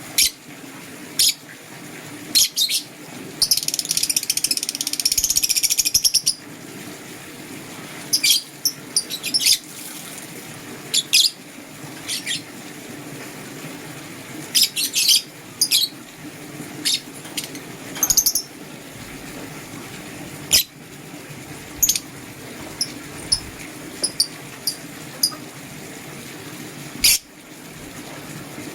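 Lovebirds chirping: short, sharp, high-pitched calls scattered throughout, with a longer run of rapid chattering about four seconds in, over a steady low hum.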